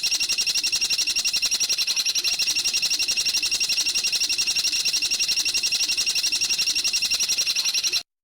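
Bird giving a fast, even trill of high notes, about eleven a second, that cuts off suddenly near the end.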